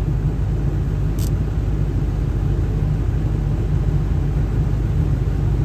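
Ford 7.3 Powerstroke diesel truck running with a steady, dense low rumble, with a brief hiss about a second in.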